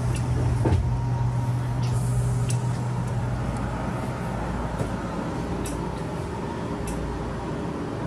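Former Keihan 3000 series electric train: a steady low hum with several sharp clicks scattered through it. The hum eases about three and a half seconds in.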